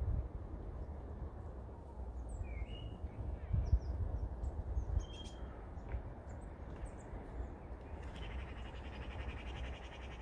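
Garden birds calling: scattered short chirps, then a harsh, rapid rattling call from about two seconds before the end. A low rumble of wind on the microphone runs underneath.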